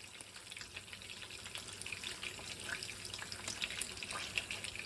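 Pot of chicken rice soup heating on the stove, faint bubbling and crackling as it comes up toward the boil.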